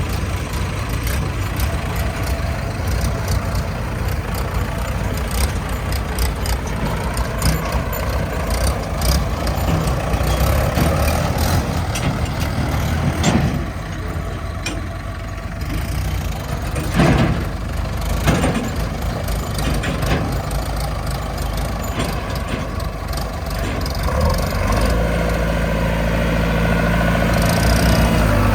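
Diesel engines of a JCB 3DX backhoe loader and tractors running, with a few sharp knocks about halfway through.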